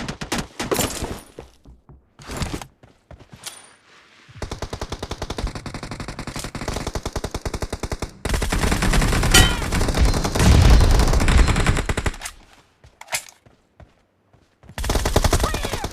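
Video-game automatic gunfire: a few scattered shots, then a long run of rapid, evenly spaced fire, followed by a louder, heavier stretch of fire. After a short pause, another burst comes near the end.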